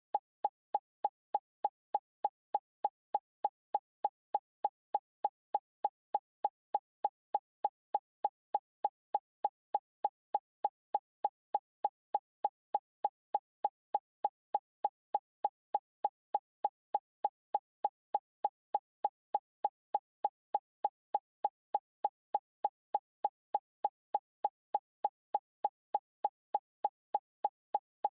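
A short plopping blip repeating at an even pace, about three times a second, each one identical, with nothing else heard between them.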